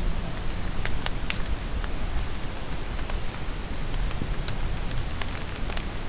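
Steady rain falling in a forest, with scattered heavier drops ticking close by. A few short, high bird chirps come around the middle.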